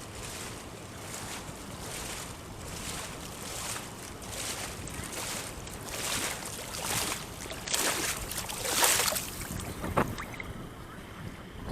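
Water sloshing and splashing in repeated swells that grow louder near the end, with wind buffeting the microphone and a sharp click about ten seconds in.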